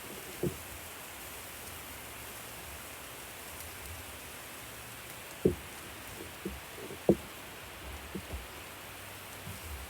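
A steady hiss, with a few soft, low knocks, the clearest about half a second in and twice more later on.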